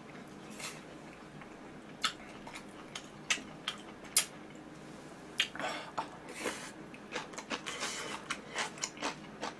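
Chopsticks clicking a few times against a dish, then close-miked wet chewing and lip-smacking of a mouthful of stir-fried noodles and side dish, getting busier in the second half.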